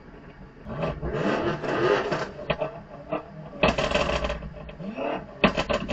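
Performance-car exhausts being revved in short blips, each rev rising and falling in pitch, with a loud burst about two thirds of the way through and a quick run of sharp pops and crackles near the end.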